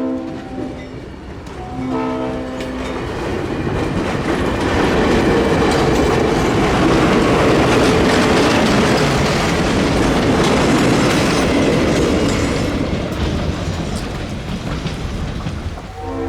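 EMD GP30 diesel locomotive's Leslie RS3L horn sounding a brief chord about two seconds in, then the locomotive and train passing close with engine and wheel-on-rail noise building to a peak and fading. The horn chord sounds again near the end.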